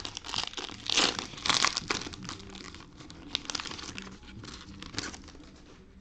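Plastic cello-pack wrapper of 2020 Panini Mosaic football cards being torn open and crinkled by hand, with the loudest rustling bursts about a second in, then lighter crackling as the cards are pulled out.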